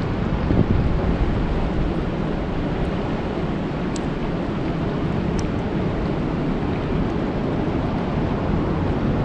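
Steady rain falling on a lake: an even, unbroken wash of noise with a deep low rumble under it.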